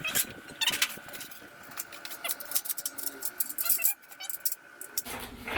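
Clicks, knocks and rustles of packaging and metal shelf parts being handled, over a faint, steady high whine that stops about five seconds in.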